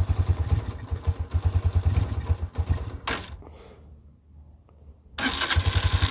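Air-cooled single-cylinder engine of a 2022 Honda CG 125 motorcycle idling with rapid, even firing pulses, freshly cold-started on half choke. About three seconds in the sound drops away after a click and returns abruptly about two seconds later, still idling.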